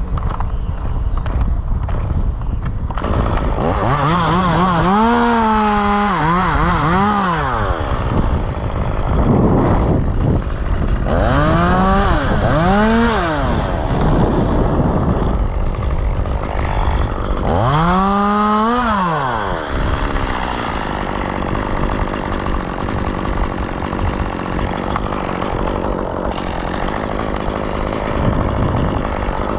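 Chainsaw engine revved up and down in three bouts of a few seconds each, with a steady rushing noise in between.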